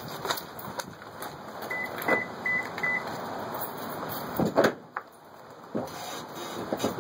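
Four short, even electronic beeps from the Toyota Tundra's warning chime, with rustling and clicks of someone moving about in the truck, then a loud thump about four and a half seconds in and a smaller one just after.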